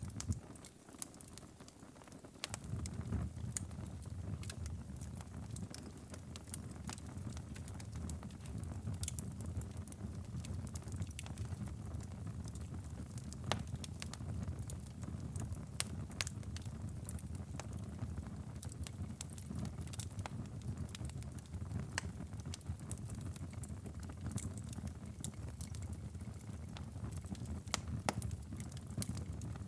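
Wood fire crackling in a fireplace, with sharp pops scattered irregularly throughout. Beneath it runs a steady low rumble that drops away just after the start and returns about two and a half seconds in.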